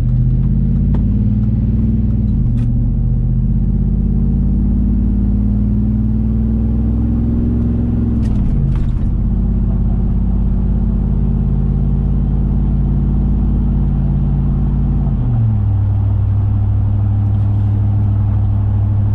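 2004 Chevy Silverado 5.3L V8 exhaust through long-tube headers and a Borla XR-1 muffler, heard from inside the cab as the truck accelerates. A deep, steady drone drops in pitch three times, about two, eight and fifteen seconds in, as the automatic transmission upshifts.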